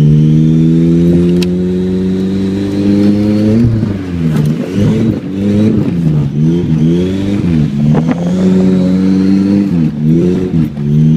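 Car engine heard from inside the cabin, held at high revs that creep upward for the first few seconds, then dropping and surging again and again as the car is slid sideways through a street drift.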